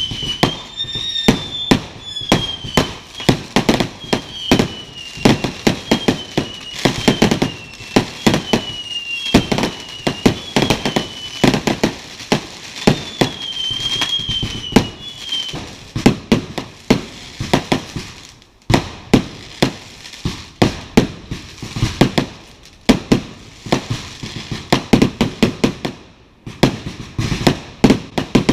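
Aerial fireworks going off in rapid, irregular bangs and crackles, with a few brief lulls. A wavering high whistle runs over the bangs through roughly the first half.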